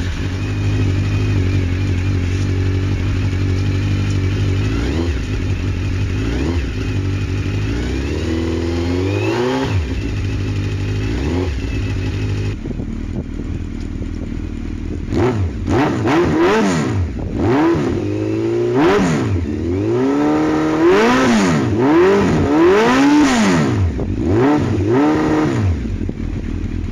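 Suzuki GSX1400's inline-four engine through a full Akrapovic exhaust system, idling steadily and blipped a couple of times. About halfway in it is revved repeatedly in quick rising-and-falling bursts, then drops back to idle near the end.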